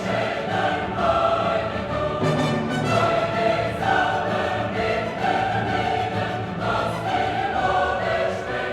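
Background music: a choir singing held notes, changing chord about once a second.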